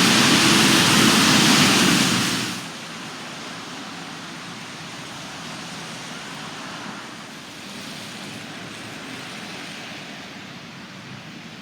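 Heavy rain falling, a steady hiss. It is loud for the first two and a half seconds, then drops suddenly to a softer hiss.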